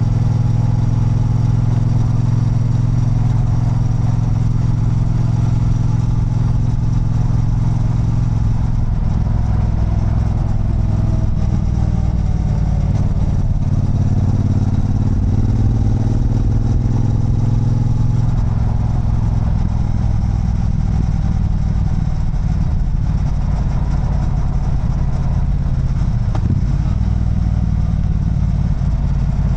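Triumph Bonneville Bobber's 1200 cc parallel-twin engine running as the motorcycle rides along. The engine note is steady, with its pitch falling and rising again about ten seconds in and shifting once more around twenty seconds in.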